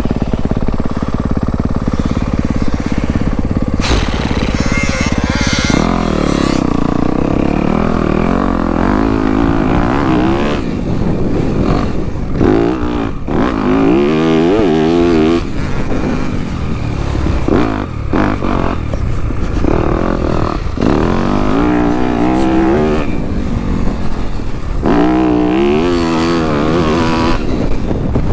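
Dirt bike engine being ridden hard, revving up and dropping back over and over as the rider works through the throttle and gears.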